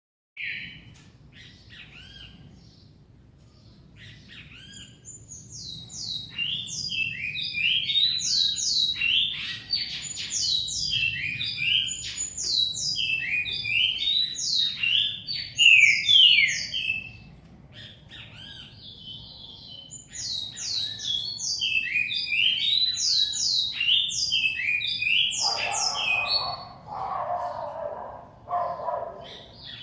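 Caged Brazilian songbirds singing: two long runs of rapid, high, downward-sweeping notes with a short pause between them, and lower, rougher notes near the end.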